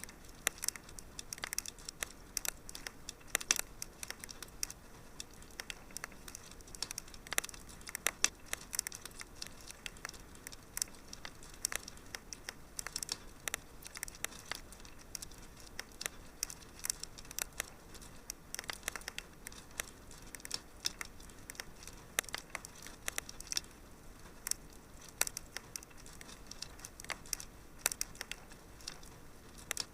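Wood fire in a fireplace crackling: irregular sharp pops and snaps, some close together and some on their own, over a faint steady hiss.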